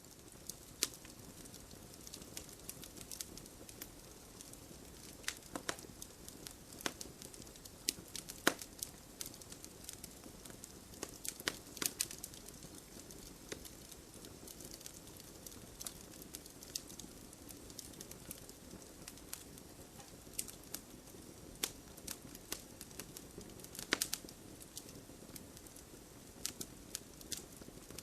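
Wood fire burning in a fireplace: a steady low rush of flame with frequent irregular crackles and pops, a few of them sharper, louder snaps.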